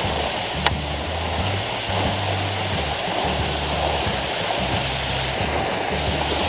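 Steady hiss of rain, with background music whose low bass notes come and go underneath; a single sharp click about a second in.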